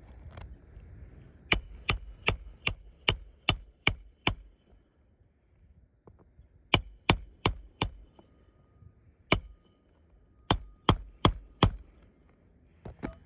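Hammer striking a roof snake to drive roofing nails under the shingles: a run of about eight quick strikes, then groups of four, one and four, each with a high metallic ring.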